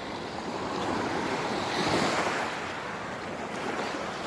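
Small waves washing against the shore, with wind blowing across the microphone; the noise swells briefly about two seconds in.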